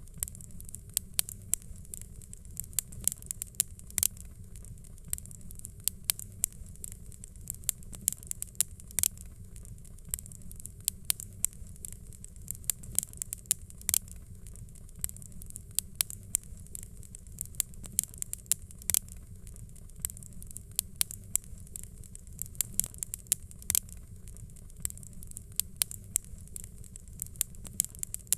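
Fireplace fire crackling: irregular sharp pops, several a second, over a steady low rumble.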